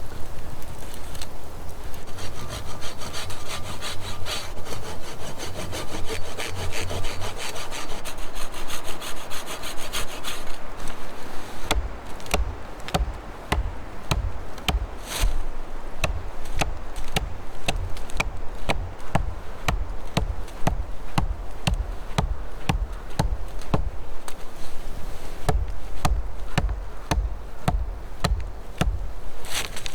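Hand saw cutting wood: a continuous rasp at first, then, from about twelve seconds in, distinct back-and-forth strokes at about two per second.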